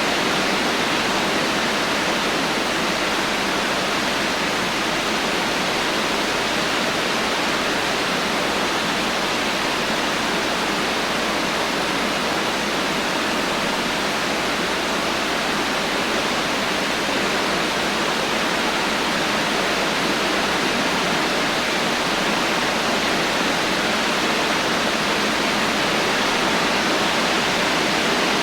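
Steady heavy rain falling, an even hiss with no thunder and no separate drops or impacts standing out.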